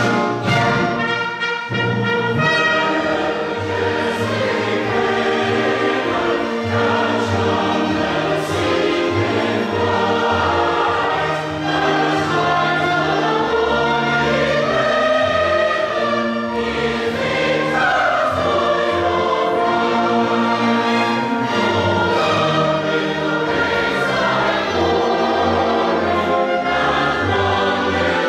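Choir singing with orchestral accompaniment, a rousing choral song with brass and strings.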